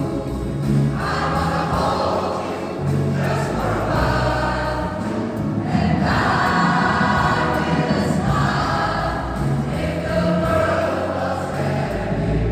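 A choir singing in phrases a few seconds long, with low voices held steady underneath.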